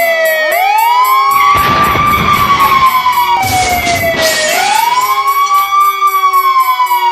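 Wailing siren sound effect, its pitch sliding slowly up and down over a few seconds at a time, with a hissing noise in the middle.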